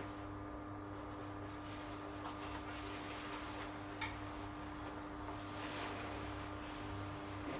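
Steady electrical hum under a faint, scratchy hiss that swells and fades, with a single sharp click about four seconds in.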